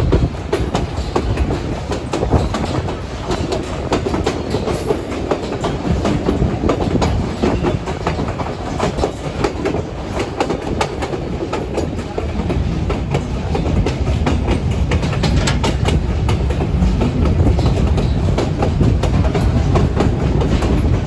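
White Pass train passenger car running on narrow-gauge track: a continuous low rumble with wheels clicking over the rails and the car rattling.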